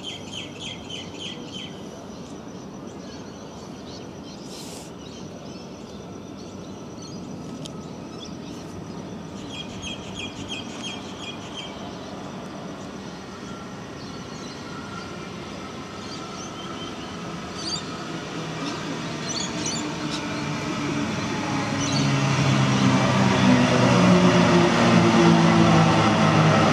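Birds chirping over quiet station ambience, then a double-deck electric suburban train approaching and running past along the platform, getting steadily louder through the second half and turning into a loud rumble with a low droning hum in the last few seconds.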